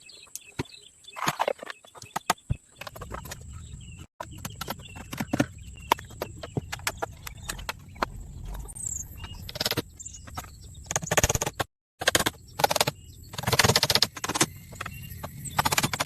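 Irregular knocks, taps and rustling from hands-on work, with a few short bird chirps; the sound drops out briefly twice.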